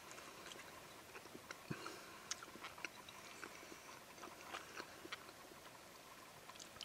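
A man chewing a mouthful of smoked pork shoulder, faint, with small irregular clicks.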